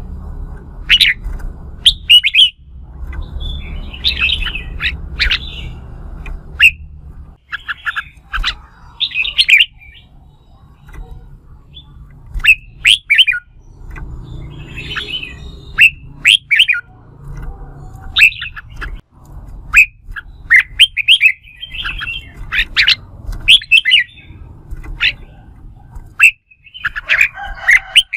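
Red-whiskered bulbul giving its fighting song: short bursts of sharp, quickly rising and falling whistled notes, repeated every second or two with brief pauses between phrases.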